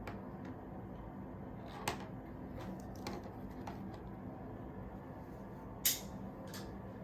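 A few scattered light clicks and knocks over a steady room hum. The loudest is about six seconds in and another comes about two seconds in.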